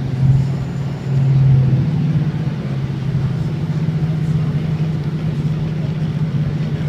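Steady low rumble and hum of a steam-hauled passenger train running along the track, heard from inside the carriage; it gets louder and slightly higher in pitch about a second in.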